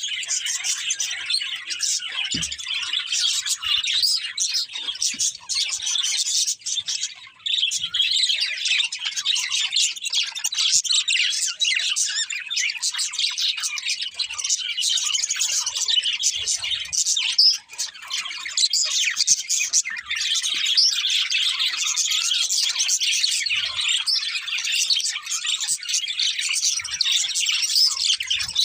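Several budgerigars chirping together, a dense run of overlapping high chirps with brief lulls about 7 and 17 seconds in.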